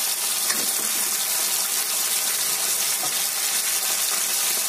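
Small fish, tomato slices and green chillies sizzling steadily in hot oil in a kadai.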